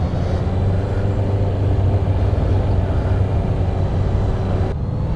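Motorcycle engine running at a steady pitch while riding, with road noise over it; the sound briefly thins out just before the end.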